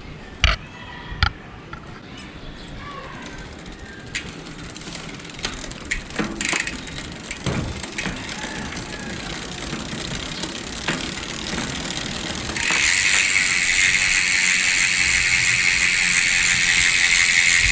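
A few sharp knocks and scattered clicks, then, about twelve seconds in, an Origin 8 rear hub's freehub starts a loud, steady ratcheting buzz as the wheel spins freely with its pawls clicking over the ratchet.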